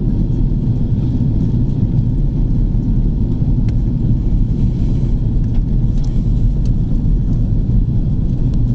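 Steady low rumble of an Airbus A330-300 heard from the economy cabin: engine and airflow noise, with a few faint ticks.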